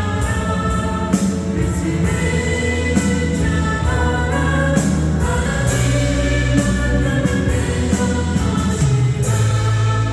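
Christian worship song: singing voices over instrumental accompaniment with a steady bass line.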